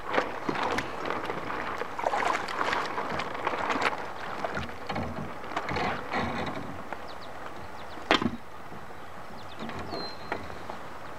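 Rustling, clicking and knocking of fishing gear being handled aboard a pontoon boat, busiest in the first half, with one sharp knock about eight seconds in.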